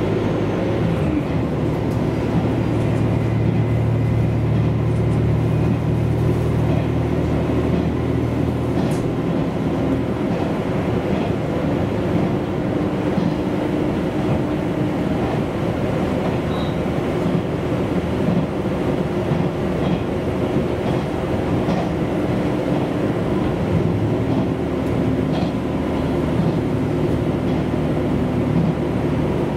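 Diesel railcar running along the line, heard from inside the car: a steady engine drone over wheel and rail noise. The engine note drops back about nine seconds in and picks up again about twenty-four seconds in.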